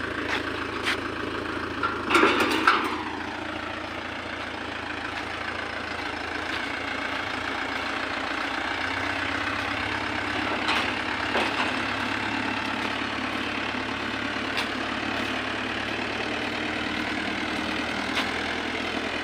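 Mahindra 585 DI tractor's diesel engine running steadily while the tractor drives along a highway at speed, with a brief louder sound about two seconds in.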